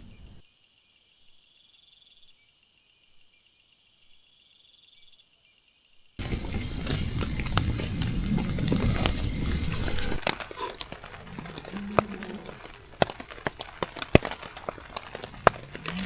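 Night insects chirping steadily in short repeating high-pitched trills. About six seconds in this cuts off suddenly and a much louder rushing noise full of sharp clicks and crackles takes over.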